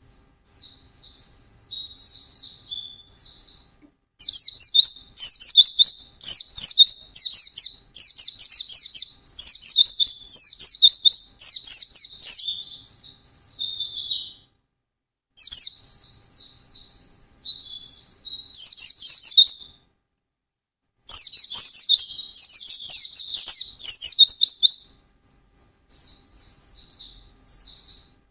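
White-eye (pleci) singing a fast, high-pitched twittering song in long runs of rapid trilled phrases, the bird in full, continuous song. It breaks off briefly about four, fifteen and twenty seconds in.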